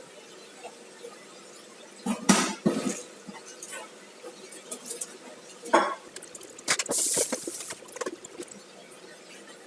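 Clinks and knocks of cookware being handled, a few short clatters, with a brief rush of noise about seven seconds in.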